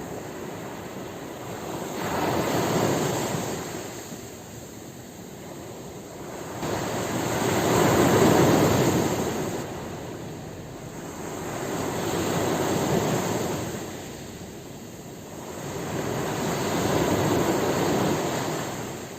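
Ocean waves washing onto a shore: four waves break, each a swell of surf noise that builds and dies away over about four seconds, the second the loudest.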